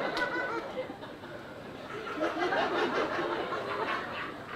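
Audience chuckling and laughing, scattered voices rising and falling.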